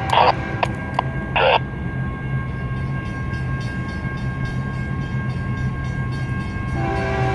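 GE ES44AH diesel locomotives rumbling past with a steady whine. Their air horn gives several short taps in the first second and a half, then a longer horn note starts near the end.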